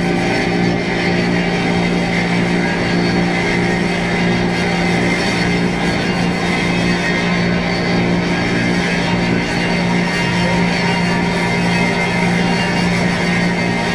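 Drone and noise music: a steady low droning tone with fainter held tones above it, under a thick wash of hiss and noise, unchanging in level.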